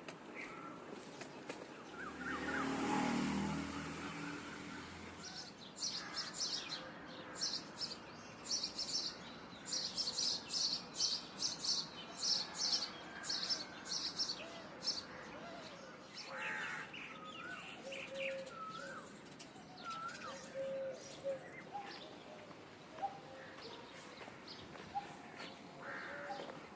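Outdoor birdsong with several birds calling. A quick run of sharp, high chirps fills the middle, then a few wavering whistled notes follow. A low rumble swells and fades about two to five seconds in.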